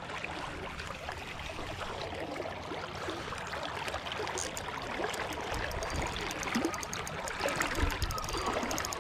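Flowing river water: a steady rushing wash of the current.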